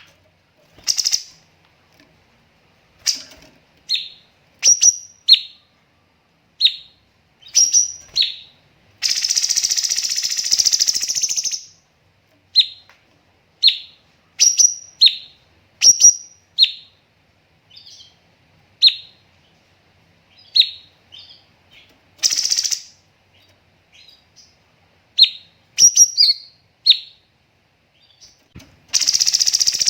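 Cucak cungkok singing: short, sharp high chirps at irregular intervals, broken twice by a long, dense, rapid volley of notes lasting two to three seconds, once about nine seconds in and again near the end.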